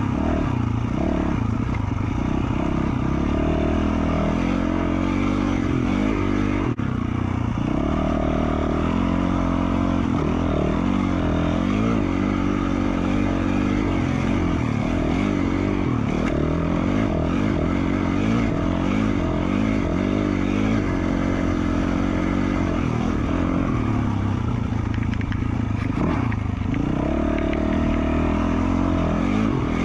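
2020 Yamaha YZ450F single-cylinder four-stroke dirt bike engine, fitted with an FMF Q4 slip-on exhaust, running under way on a trail. The pitch rises and falls with the throttle, with a brief let-off just before seven seconds in.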